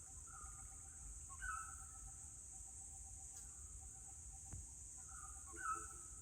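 Forest ambience: a steady high insect drone and a fast run of short pulses under repeated bird calls, with two louder calls about a second and a half in and near the end.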